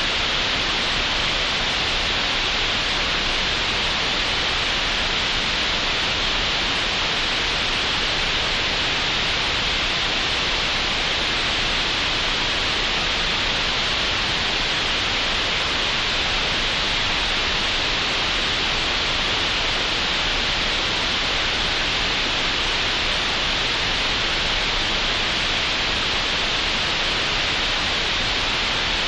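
Synthetic green noise: a steady, unchanging hiss with most of its energy in the upper middle range.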